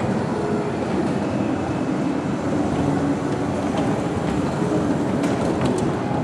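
A little train running on its track with a steady rumble, and a few sharp clicks about five seconds in.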